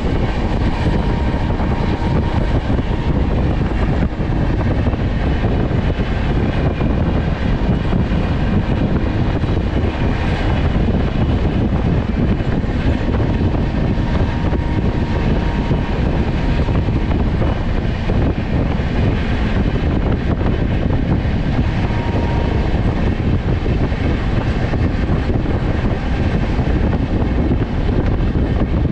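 Shan-e-Punjab Express train running at speed: a steady, unbroken rumble and rush of running noise.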